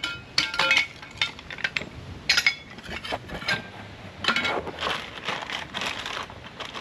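Sharp metallic clinks and knocks of work on a water line, then, a little over four seconds in, a steady hiss of water flowing through the opened line.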